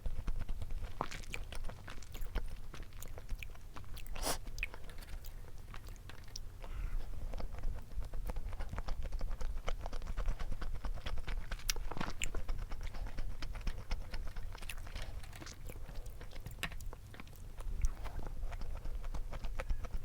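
Close-miked mukbang eating sounds: chewing and biting with scattered crunchy clicks from the mouth and food.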